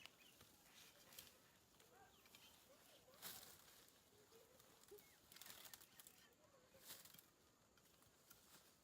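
Near silence: faint rural outdoor ambience with a few faint short animal or bird calls and occasional soft clicks or rustles, one a little louder a few seconds in.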